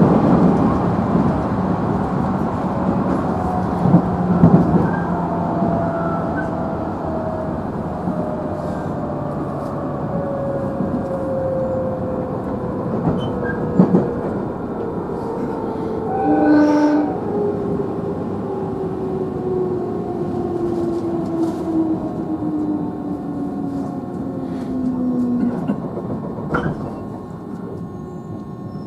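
Interior running sound of a JR Central 311 series electric train, car KuMoHa 311-4: the inverter-driven traction motor tone falls steadily in pitch as the train slows, over a steady rumble, with a few clacks from rail joints and a brief tone about halfway through.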